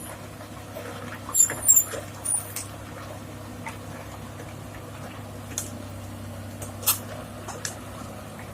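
Heavy diesel engine running steadily at idle, with a few sharp metallic clicks and squeaks, the loudest about a second and a half in.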